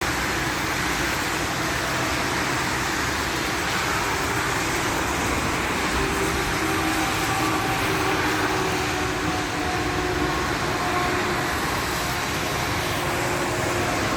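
Steady rain, an even hiss at a constant level with no breaks.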